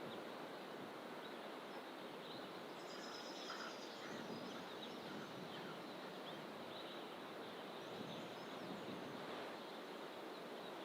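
Faint, scattered bird chirps and calls from several birds in the bush, over a steady rushing background noise.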